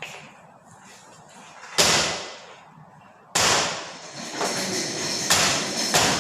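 Construction-site work noise: two loud bangs with ringing tails, the second followed by continuous clattering din with further hits every second or so.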